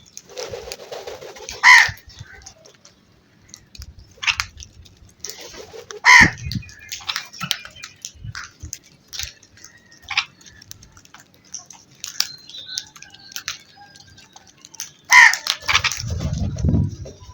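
Crows cawing: three loud, harsh caws about 2, 6 and 15 seconds in, with fainter calls between them. A low rumble comes in near the end.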